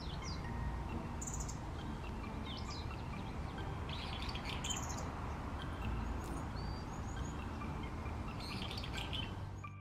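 Small woodland songbirds giving short, high chirping and twittering calls in scattered bursts, over a steady hiss of outdoor background noise.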